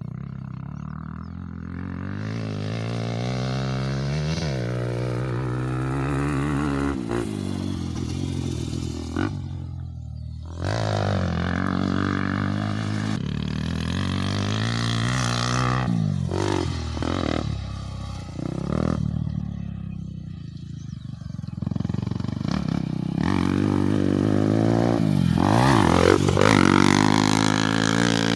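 Motocross bike engine revving hard and easing off as it is ridden round a track, the pitch climbing through the gears and falling away again, dropping out briefly twice when the throttle is shut.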